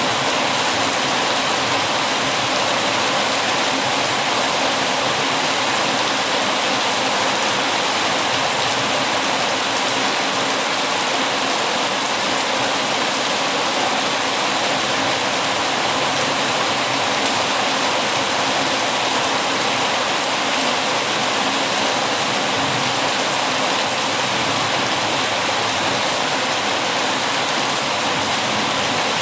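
Heavy rain falling steadily: a dense, even hiss of water that does not let up.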